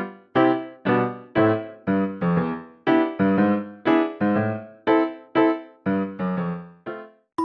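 Background music played on a piano: notes and chords struck about twice a second, each fading away before the next.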